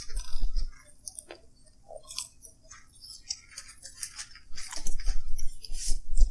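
Eating sounds close to the microphone: chewing and mouth smacks, with scattered small clicks and a few low knocks near the start and near the end.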